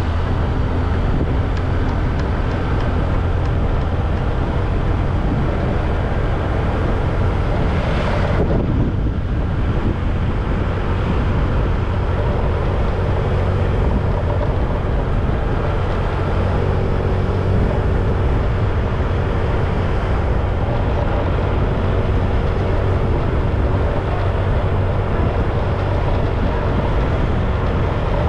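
Motorcycle riding at a steady pace: its engine running under a continuous rush of wind on the action camera's microphone, with a brief swell of noise about eight seconds in.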